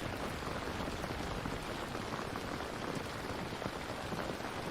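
Steady rain falling, a continuous even patter.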